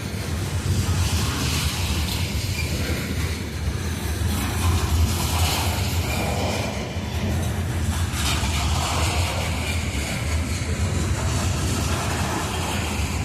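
Coal train rolling past: a steady low rumble of steel wheels on rail, with a faint clatter over the rail joints.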